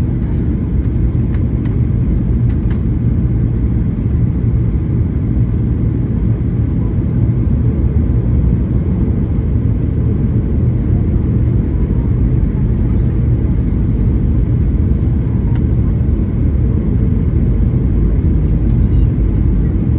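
Steady low rumble of an airliner's engines and airflow heard inside the passenger cabin in flight.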